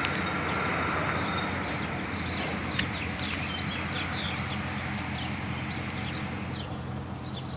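Small birds chirping in quick short calls, thickening from about two and a half seconds in, over a steady low hum.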